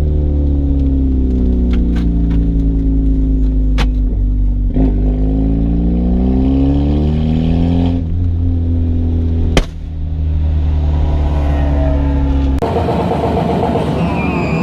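Car engine idling steadily with a deep, even hum, its pitch drifting slightly up and down, with a few sharp clicks. Near the end the sound changes suddenly to a busier, noisier engine sound.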